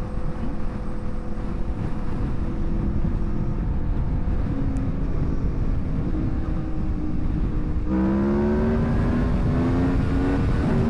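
Aprilia Tuono motorcycle engine running at a steady cruise under heavy wind rush. About eight seconds in the throttle opens and the engine note climbs for a couple of seconds, then drops back near the end.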